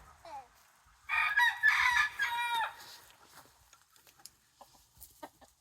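A rooster crowing once, a loud call of about a second and a half that falls away at the end.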